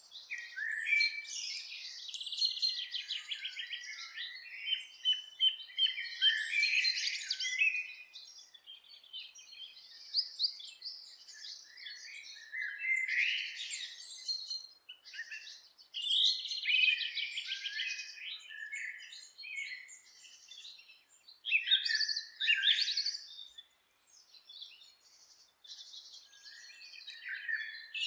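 Several birds singing and calling together in a forest: overlapping chirps, rapid trills and warbled phrases in bursts, high-pitched, with short lulls around the middle and about two thirds of the way through.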